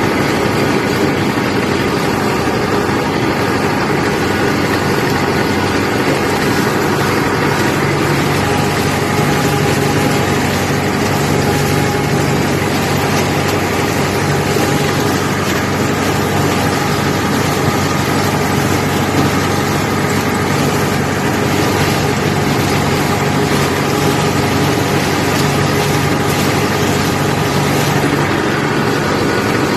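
IMT 558 tractor's diesel engine running steadily, a constant loud mechanical drone with no change in speed.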